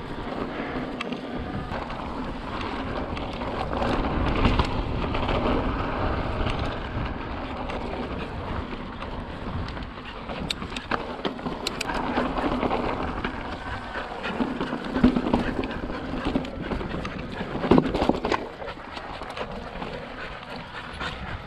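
Mountain bike rolling over slickrock: steady tyre and riding noise with frequent rattles and knocks from the bike, and a few harder thumps.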